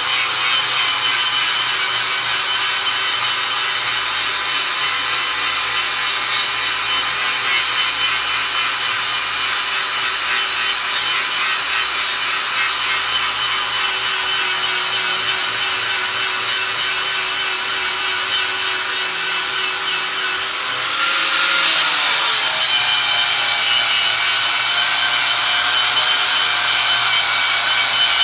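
Electric grinder sharpening an axe blade: a steady motor whine over the rasp of the disc on steel. About three-quarters of the way through, the whine dips briefly and settles at a different pitch.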